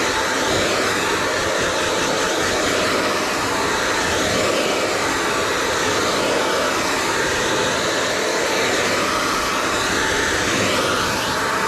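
Hand-held hair dryer blowing steadily, its whooshing tone shifting slightly as the airflow moves.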